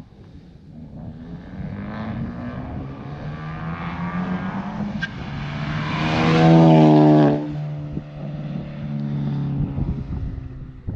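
2016 Ford Focus ST's turbocharged 2.0-litre four-cylinder running through an AWE Touring Edition non-resonated cat-back exhaust under throttle. The exhaust note builds steadily to its loudest around six to seven seconds in, then drops off sharply about seven and a half seconds in as the throttle comes off.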